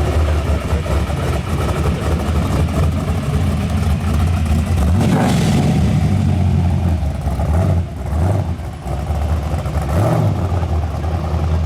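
Car engine running with a deep, steady rumble, revved briefly about five seconds in and again near ten seconds.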